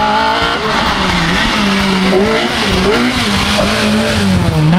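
Rally car's engine working hard on a snowy stage, its pitch rising and falling as the driver comes on and off the throttle, with a hiss over it through the middle. The engine pitch dips near the end, then climbs again.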